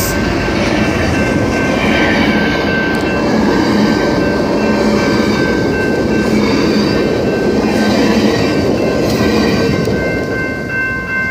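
A train running past at close range: a loud, steady rumble and clatter of wheels on rail, with a thin steady high tone over it.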